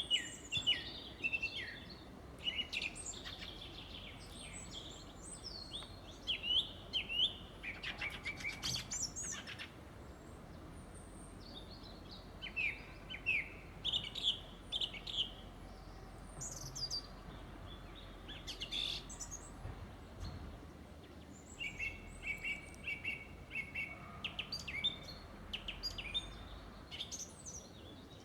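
Several songbirds singing and calling at once in a spring woodland dawn chorus: many short chirps, whistled phrases and trills overlapping, with a faint steady background hum.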